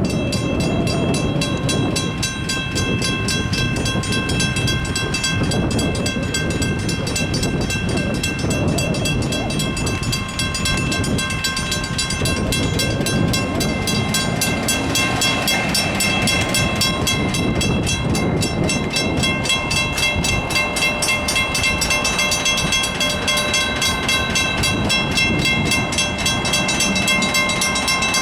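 Graham White electronic crossing bell ringing in rapid, steady strokes at a railroad grade crossing, over the low rumble of a diesel-led train passing.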